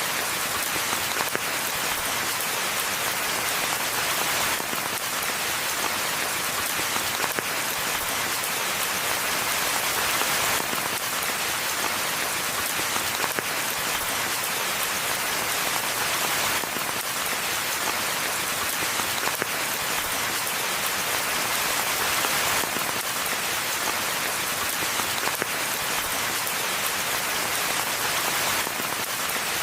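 Steady rain falling in a forest, an even hiss of many drops with scattered sharper single drop hits.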